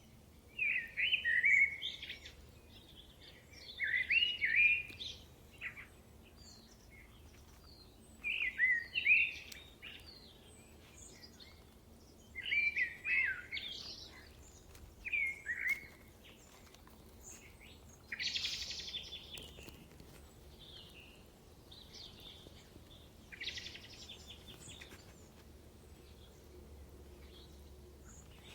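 A songbird singing short phrases of gliding, whistled notes, about one every three to four seconds with pauses between. Two harsher, scratchier calls come in the second half, over a faint low background hum.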